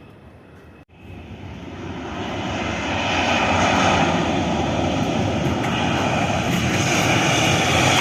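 Airliner engines passing close. The sound cuts out briefly about a second in, then swells over about two seconds and holds loud.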